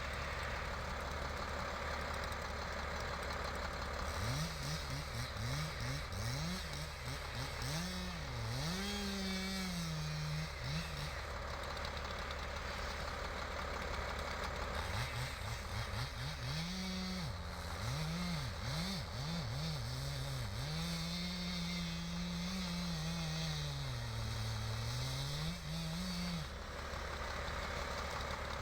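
An engine idling steadily, revved up and down over and over in two long spells, its pitch swinging between a low and a higher note.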